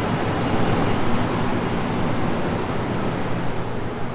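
Train standing at the station platform: a steady rushing noise with a low hum underneath.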